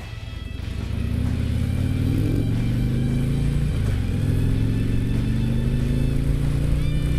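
Harley-Davidson Street Glide's V-twin engine accelerating: the revs climb for a few seconds, drop at a gear change about four seconds in, then climb again.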